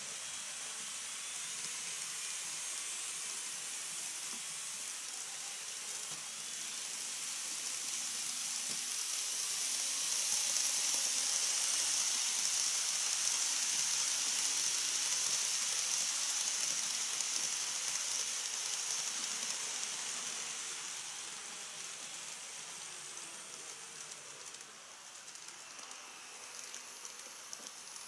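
KATO model train running along the track, a steady high hiss of motor and wheels that grows louder as it approaches, peaks about halfway, then fades away, with a few faint ticks near the end.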